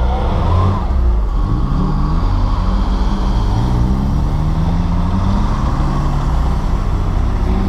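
Engines of off-road 4x4s, Suzuki Samurais among them, pulling away one after another, with their pitch rising and falling as each accelerates past while others idle.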